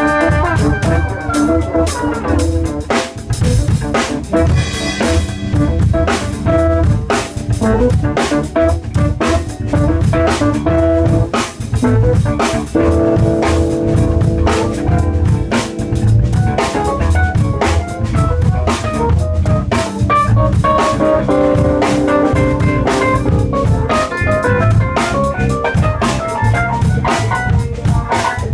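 Band playing an instrumental passage: a drum kit keeping a busy beat under guitar and held chords.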